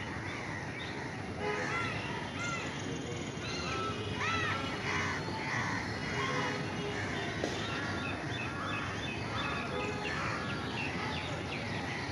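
Birds calling repeatedly in short rising-and-falling notes from about a second and a half in, over a steady outdoor background hiss.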